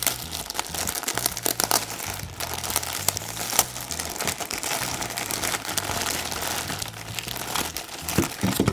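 Toy packaging being handled and opened: continuous irregular crinkling and rustling with many small clicks.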